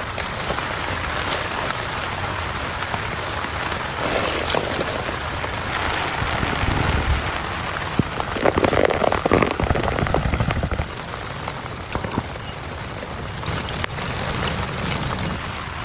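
Heavy rain falling steadily, a dense patter of many separate drops. It swells louder about eight seconds in and eases slightly a few seconds later.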